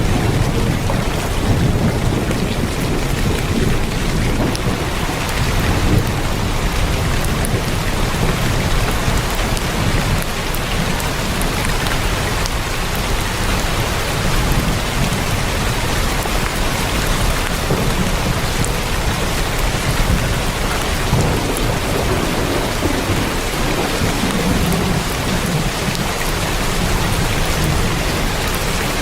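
Heavy rain falling on a tin roof: a dense, steady hiss, with a low rumble underneath that swells and fades several times.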